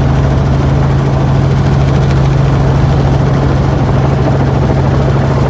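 Helicopter in flight heard from on board: the steady, loud drone of the rotors and turbine with a strong low hum that holds even throughout.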